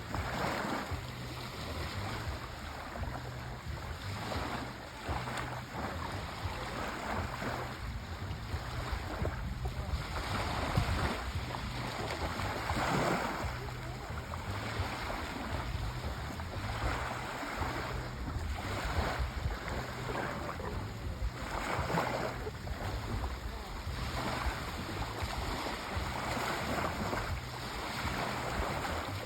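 Sea waves washing ashore, a continuous rush that swells and ebbs every few seconds, with a low rumble underneath.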